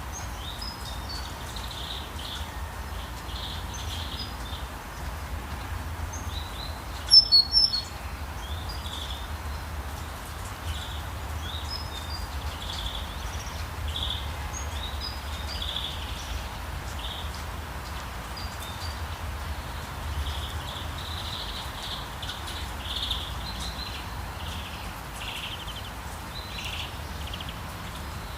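Steady rain with a low rumble beneath many short bird chirps and songs. About seven seconds in, a brief burst of loud, sharp bird calls is the loudest moment.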